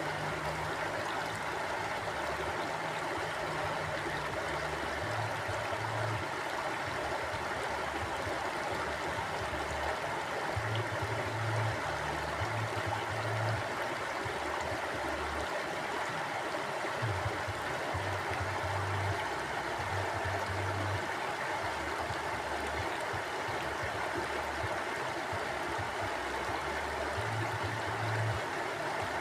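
Stream water flowing steadily over rocks, an even rushing and babbling, with a low rumble underneath that swells and fades every few seconds.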